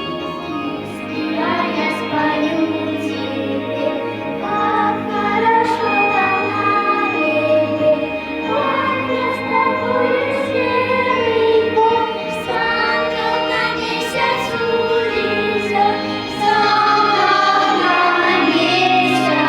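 Young children's choir singing a song together over an instrumental backing track.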